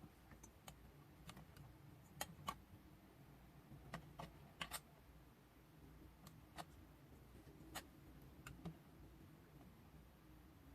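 Near silence with faint, scattered light clicks and taps at irregular intervals, from handling small clay tools and clay on a work surface.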